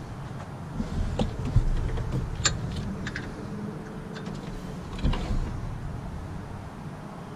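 Scattered sharp metallic clicks and knocks from hands and tools working on a car's engine-bay belt drive, over a low steady rumble; the sharpest click comes about two and a half seconds in.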